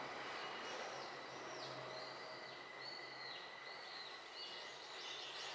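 Faint bird calls: a string of short, arching high chirps, one after another, over a steady low background hum.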